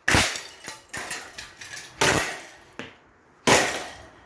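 Hoover 16-inch desk fan's blades being smashed: three hard blows, about a second and a half apart, each followed by a short rattling decay, with lighter knocks between. The blades hold up under the blows.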